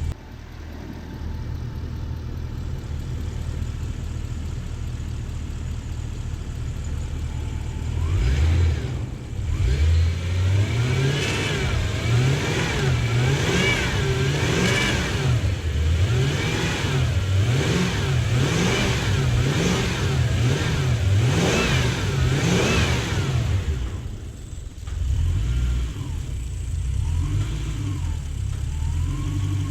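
Lexus LS400's 1UZ-FE V8, freshly fitted into the car and running, idles steadily, then is revved over and over in quick blips from about eight seconds in, before settling back to a near idle with a few small revs near the end.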